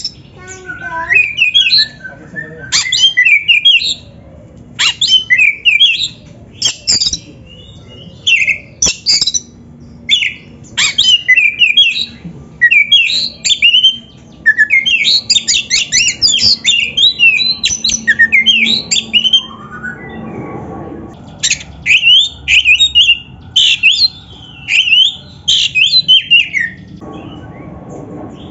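Oriental magpie-robin (kacer) singing: loud, varied phrases of quick rising and falling whistled notes and chattering trills, one phrase every second or two with short pauses between them.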